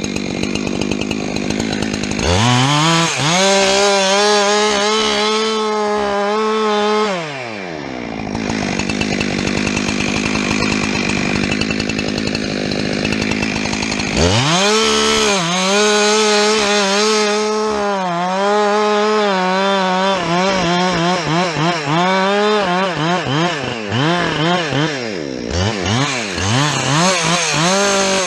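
Two-stroke chainsaw revved to full throttle, dropping back to idle about seven seconds in, then revving up again halfway through. In the second half its pitch dips and recovers again and again, as the engine loads and unloads while cutting wood.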